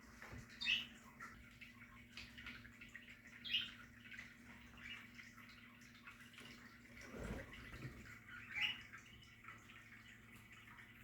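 Budgerigars chirping in a colony aviary: scattered short, high chirps, three of them louder, over a faint steady low hum. A brief low thud comes about seven seconds in.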